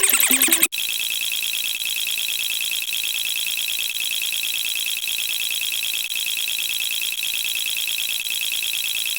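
Electronic alarm-like buzzer sound effect: a steady, rapidly pulsing high-pitched buzz that starts abruptly under a second in, cutting off the electronic music, and holds at an even level.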